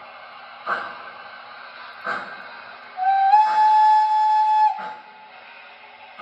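O scale model steam locomotive's onboard sound system: slow, evenly spaced steam chuffs about every second and a half, with one whistle blast of nearly two seconds midway whose pitch steps up slightly just after it starts.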